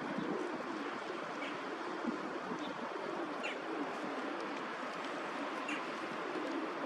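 A few faint, short, high bird chirps scattered over a steady outdoor background hiss.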